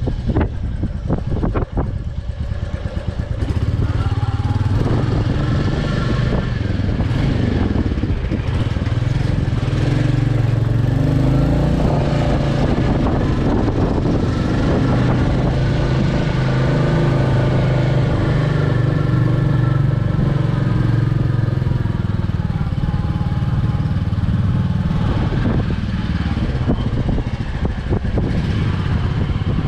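Motorcycle engine running while being ridden, its note rising and falling gently with speed.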